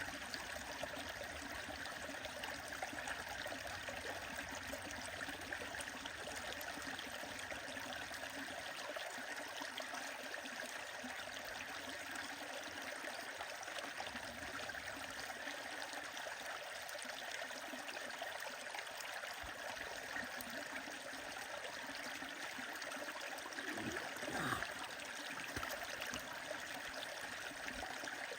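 A stream running steadily, with a wood fire crackling alongside it. One brief louder sound comes near the end.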